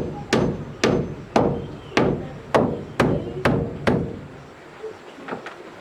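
A tool striking wood in quick, regular blows, about two a second, each with a short ring. The blows stop after about four seconds, and a couple of fainter ones follow.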